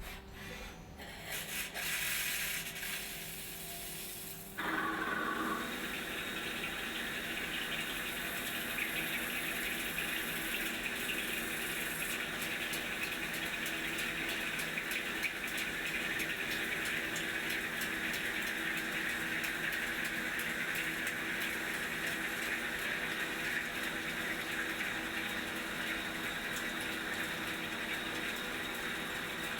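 Takisawa TCN-2100 CNC lathe running with its coolant flowing, a steady rushing wash that comes on suddenly about four and a half seconds in.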